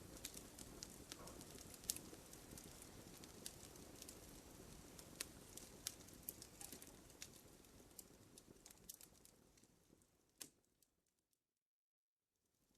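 Wood campfire crackling, with sharp pops over a soft hiss. It fades out about ten seconds in, goes silent for about a second and a half, then fades back in near the end.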